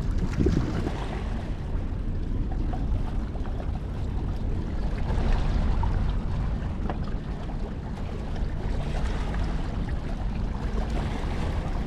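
Harbour-side ambience: a steady low rumble with a faint low hum, under a haze of wind and water noise.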